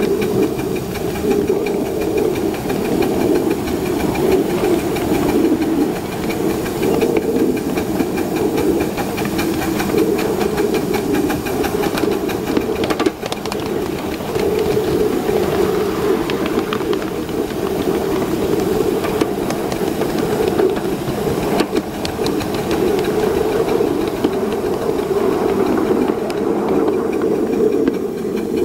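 7½-inch gauge live-steam model K-4 locomotive running, with a steady hiss of steam and engine noise and an occasional sharp click.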